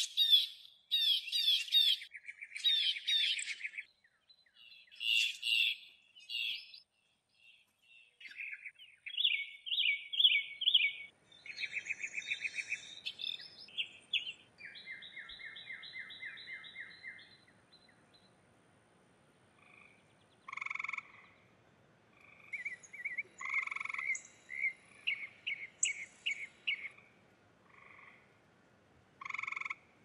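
Songbirds singing: a run of quick, high trills and repeated whistled phrases of several different kinds, some loud, with short gaps between. After about twenty seconds come sparser, shorter, somewhat lower notes repeated at intervals.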